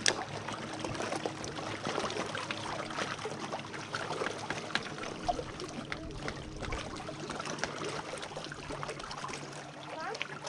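Small waves lapping and trickling along the reservoir shoreline, a steady crackle of little splashes over a faint low hum. A single sharp click at the very start.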